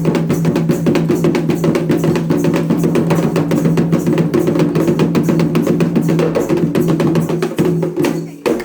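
Fast, steady drumming on ceremonial hand drums with other percussion, as played at a Candomblé ceremony for Xangô. It stops abruptly just before the end.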